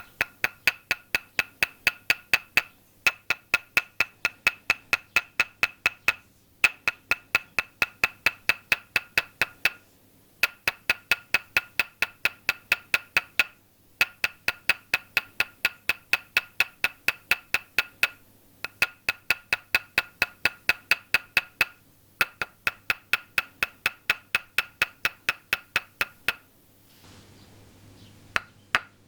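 Toksen massage: a wooden mallet tapping a wooden stake in quick, even knocks of about four to five a second, each with a short ringing wooden tone. The knocks come in runs of about three seconds with brief pauses between them, and there is a longer pause shortly before the end.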